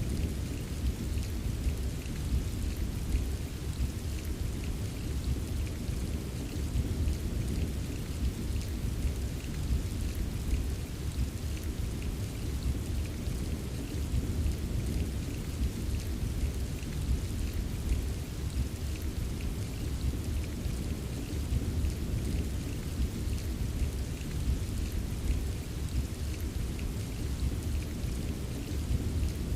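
Steady rain with a dense patter of fine drop taps over a constant deep rumble. The sound stays even throughout, with no single thunderclap standing out.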